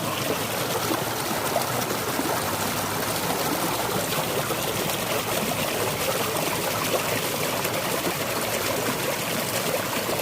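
Small rain-swollen creek running steadily and spilling over a little hand-built rock waterfall: a continuous splashing trickle.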